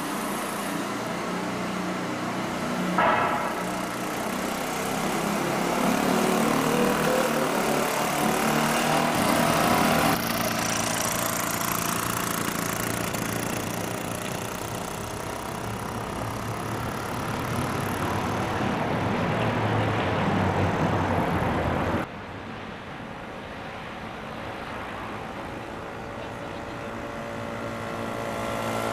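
Solex moped's small two-stroke engine running on a trike chopper, its pitch and loudness rising and falling as it rides, with an abrupt drop in loudness about 22 seconds in.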